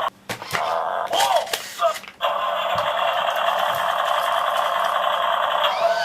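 Electronic sound effect from a Stinky toy garbage truck's small built-in speaker: a steady, tinny, buzzy noise with brief breaks near the start and about two seconds in.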